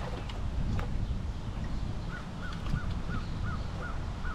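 A bird calling a quick run of about six short, arching notes in the second half, over a steady low rumble.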